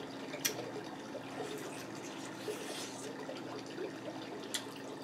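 A person quietly chewing a bite of seafood boil, with two short sharp clicks, about half a second in and near the end, over a steady background hiss and low hum.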